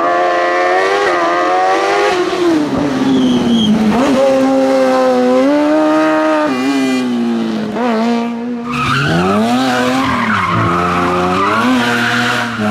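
Race car engine revving hard on a hillclimb, its pitch climbing and dropping again and again through gear changes and lifts off the throttle. About nine seconds in the sound changes abruptly to a lower engine note with a hiss of tyre noise.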